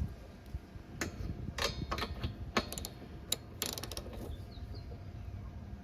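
Ratchet wrench with a 5/8 spark plug socket clicking and clinking in a few separate strokes, as the spark plug is being removed from the small engine.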